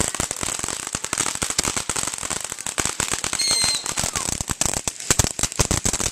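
Consumer fireworks going off in a rapid, continuous string of crackling pops.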